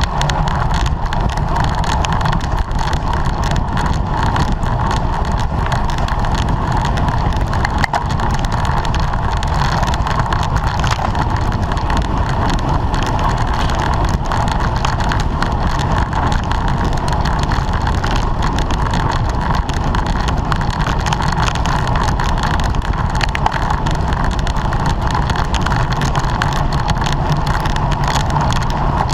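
Steady rush of wind and road noise on a camera riding along on a racing bicycle at speed.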